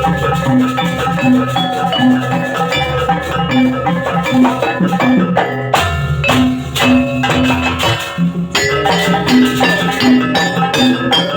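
Banyuwangi barong gamelan music: metallophones hammer a repeating melody over drums. A denser run of strikes comes about halfway through.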